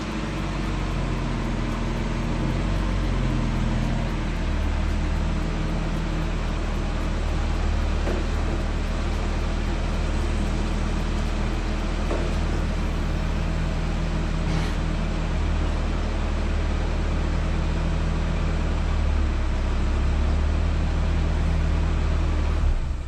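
Mazda Miata's four-cylinder engine running as the car creeps forward, then idling steadily. It cuts off abruptly right at the end.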